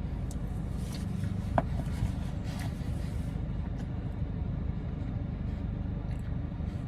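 Steady low rumble of an idling vehicle, with a few faint clicks and scrapes of a spoon in an ice-cream cup as another bite is taken.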